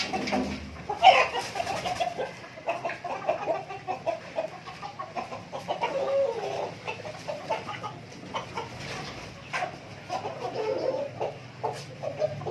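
A flock of native chickens clucking and calling over one another, with short sharp taps scattered through.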